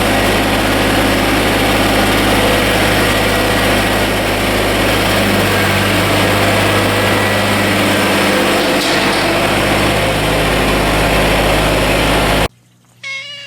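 Kubota BX24 tractor's three-cylinder diesel engine running steadily, cutting off abruptly near the end. Just after, a cat meows once.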